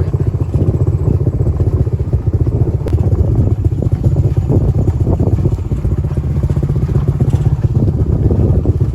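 Engine running steadily with a low, rapid pulsing throughout, typical of a motorcycle being ridden.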